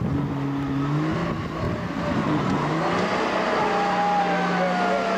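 Off-road 4x4's engine running under load, its pitch climbing over the first few seconds and then holding steady.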